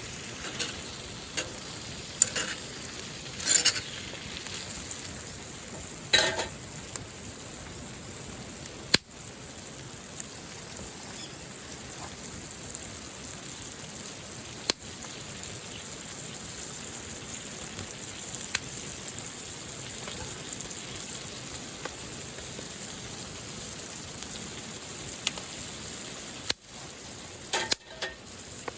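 Goya champuru (bitter melon, tofu and egg) stir-frying in a pan with a steady sizzle. A spatula scrapes and clatters against the pan a few times in the first several seconds and again near the end.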